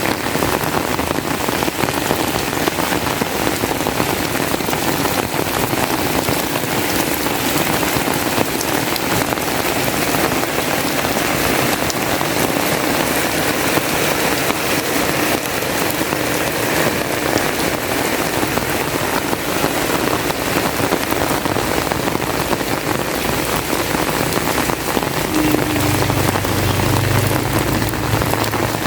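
Heavy rain falling steadily, a dense even patter of drops. A low hum joins briefly near the end.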